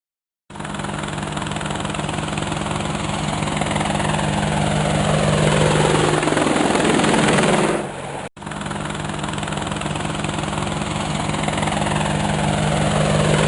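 Helicopter sound effect: steady rotor chop over an engine drone, growing louder. It fades and cuts off about eight seconds in, then starts over and swells again.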